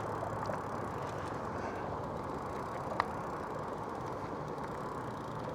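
Steady wind and road noise while riding a throttle-assisted bicycle, with one sharp click about three seconds in.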